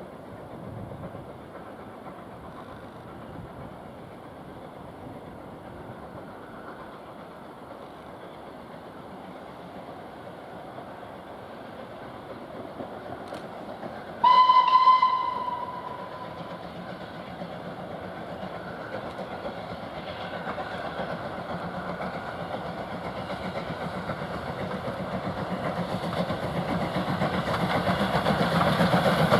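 A steam locomotive's whistle gives one short blast about halfway through, over the steady rumble of a train, and the train noise grows louder toward the end.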